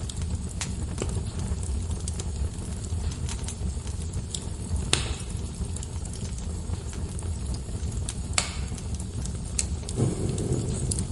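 Wood fire crackling: scattered sharp pops and snaps of burning logs, two louder ones around the middle, over a steady low rumble of the flames.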